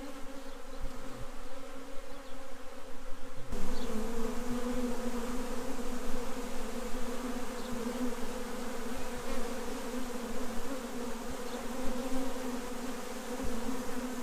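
Many honeybees buzzing around their hive, a steady hum that gets louder about three and a half seconds in.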